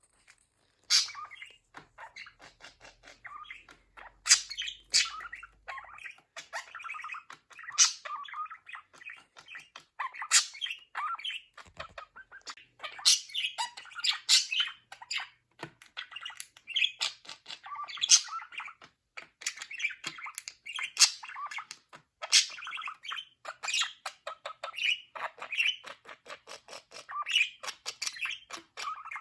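Pet budgerigars chirping and warbling in quick, continuous chatter, with a louder sharp call every few seconds.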